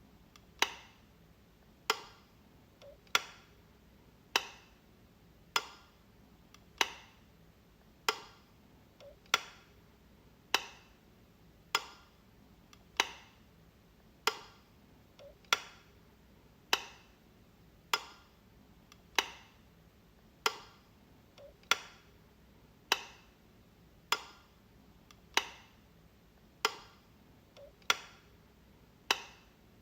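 A light switch being flicked over and over, one sharp click roughly every second and a quarter in a steady, even rhythm.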